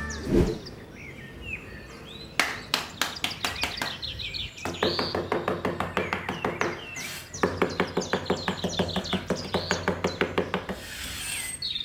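Rapid runs of sharp knocks, about seven a second, in three long bursts, with a few bird chirps between them.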